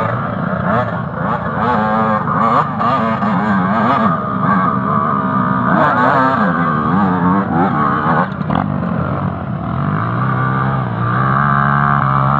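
Trail motorcycle engine revving, its pitch rising and falling again and again as the throttle is worked. It settles to a steadier note about ten seconds in.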